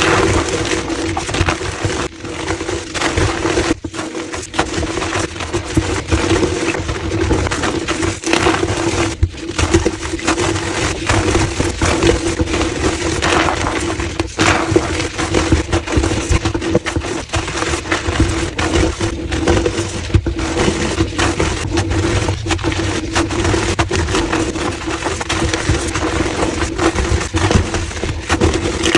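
Blocks of gym chalk being crushed and crumbled, a dense run of crunching and crackling, sped up to double speed. A steady low hum runs underneath.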